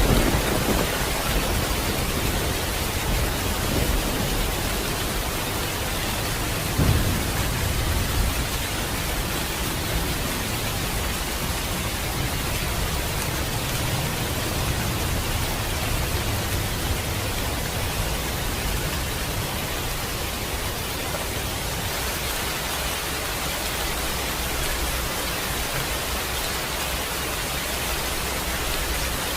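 Steady rain with low rumbles of thunder. The rumbles swell at the start and again, loudest, about seven seconds in, then fade back under the rain.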